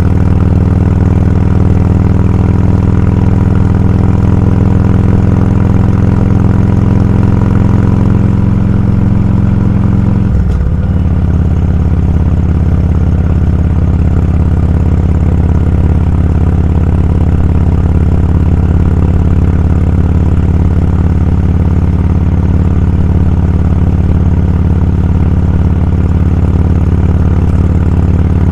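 Motorcycle engine running steadily at riding speed, heard from on the bike. About ten seconds in the engine note dips briefly and changes, then settles at a new steady pitch.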